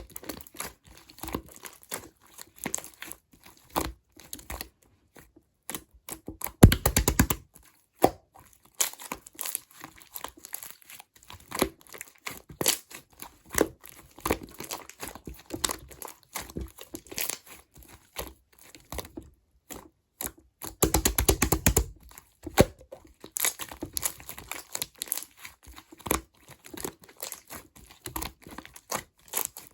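Clear slime being squished and pressed by hand, with sticky clicks and small pops from trapped air. Two bursts of rapid crackling popping stand out, about seven seconds in and again about twenty-one seconds in.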